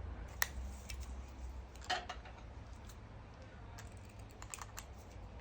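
Small clicks and taps of a Dremel rotary tool and its bits being handled while a cutting disc is fitted: one sharp click about half a second in, a clatter around two seconds, and a few light ticks near the end.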